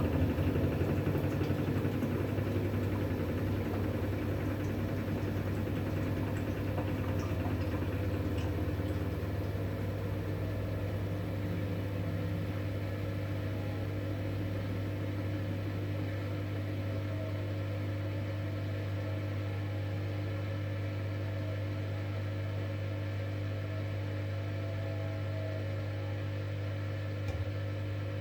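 V-Zug Unimatic SL washing machine running: a steady mechanical hum with a few constant tones, easing slightly over the first ten seconds or so and then holding level.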